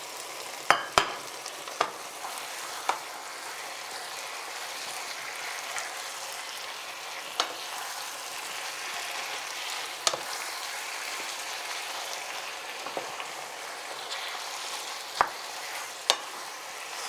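Chicken stew frying in a pan with a steady sizzle, while a spoon knocks against the pan now and then as the chicken is turned and stirred.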